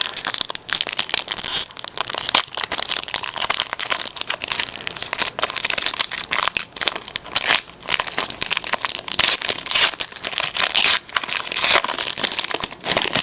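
Crinkling and tearing of a sealed hockey card pack's wrapper as it is pulled open, a dense run of crackles and sharp snaps.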